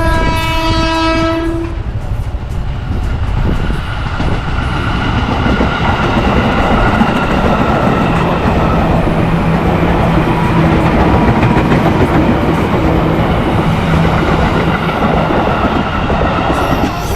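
A train horn sounds one blast of about two seconds, then a train runs past, its wheels clattering over the rails with a steady whine underneath.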